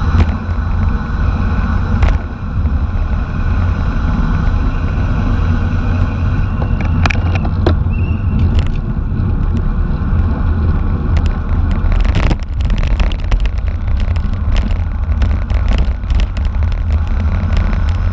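Wind buffeting a camera microphone at racing speed on a bicycle, a steady heavy low rumble with road noise. About twelve seconds in, a rapid patter of clicks and rattles joins it.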